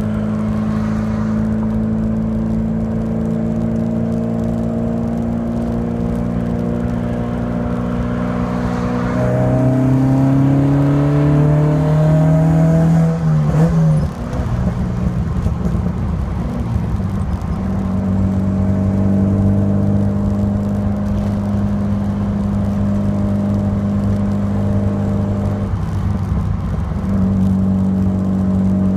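1986 Alfa Romeo Alfasud Sprint QV's 1.5-litre boxer four running through a stainless-steel exhaust at a steady pitch. About nine seconds in its revs climb gently, then drop away sharply near fourteen seconds. After a few rougher seconds it settles back to a steady run.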